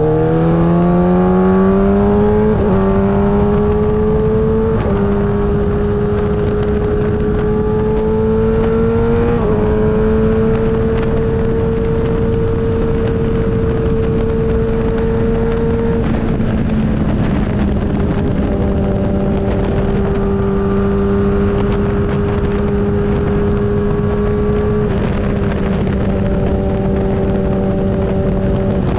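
Motorcycle engine running on the move: its pitch climbs in the first few seconds, steps a few times, then holds steady at cruising speed, with wind rushing over the microphone.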